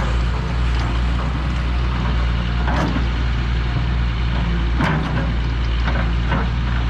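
Diesel engines of backhoes digging on a riverbank, running steadily, with a few short sharp clanks near the middle and end.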